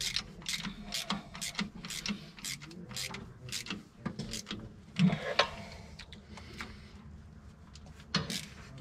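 Ratchet wrench clicking in a steady rhythm, about two or three clicks a second, as a bolt is turned; the clicking stops about halfway, followed by two louder metal knocks and another knock near the end.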